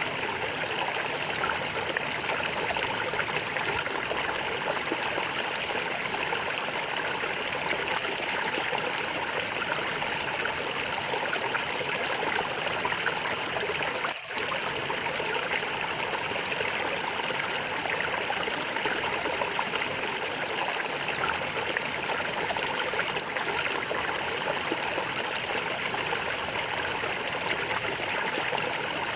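A stream of water flowing and gurgling steadily, with a momentary dip in the sound about halfway through.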